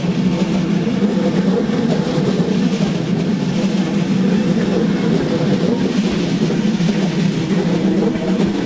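Train in the station running with a steady low drone.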